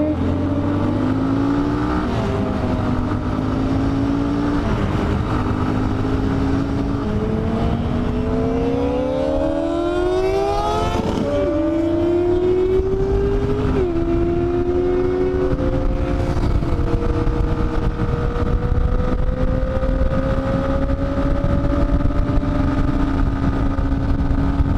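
Dafra Next 250's single-cylinder engine pulling up through the gears: its pitch climbs in each gear, drops sharply at shifts about eleven and fourteen seconds in, then holds steady at cruising speed. Wind rush underneath.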